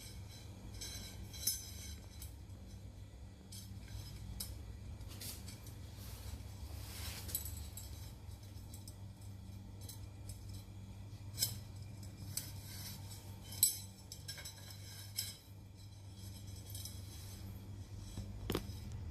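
Light metallic clinks with a few sharper clicks, over a steady low rumble.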